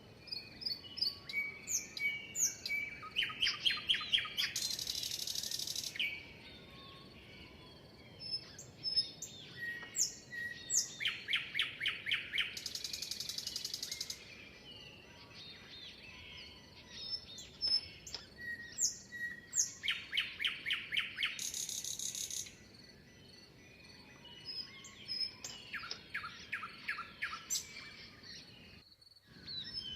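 Birdsong: one bird repeats the same song about every nine seconds. Each song is a few quick falling whistles, then a fast run of notes and a buzzy high trill lasting about a second and a half. Scattered chirps from other birds fill the gaps.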